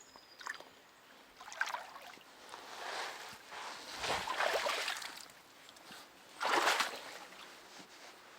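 Water splashing and sloshing in four or five short bursts, the longest about a second.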